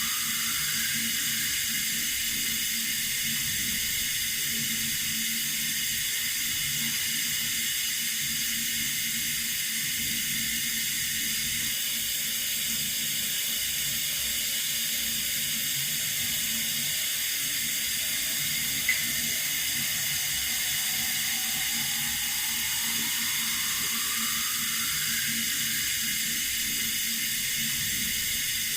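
Tap water running steadily: an even, unbroken hiss, with one small click about two-thirds of the way through.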